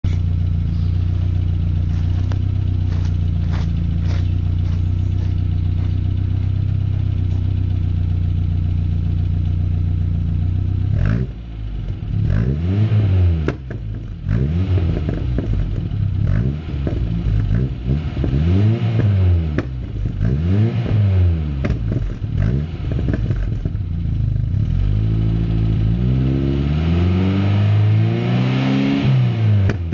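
Ford Cortina P100's 2.0-litre Pinto four-cylinder engine through a cherry bomb back box with the middle silencer removed, idling steadily with a few sharp pops in the first few seconds. About eleven seconds in it starts being blipped, a string of quick revs rising and falling, then a longer climbing rev near the end.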